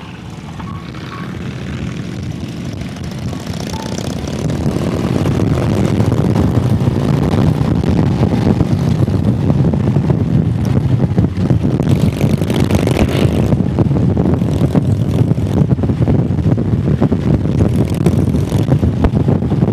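Motorcycle engine and wind noise while riding, growing louder over the first several seconds as the bike picks up speed, then holding steady.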